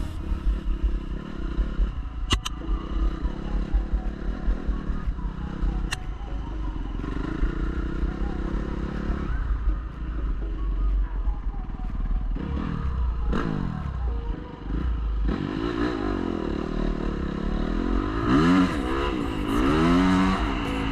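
Dirt bike engine running off-road with wind noise on the microphone, with sharp knocks and clatter from the bike over rough ground. Near the end the engine revs up and down several times in quick succession.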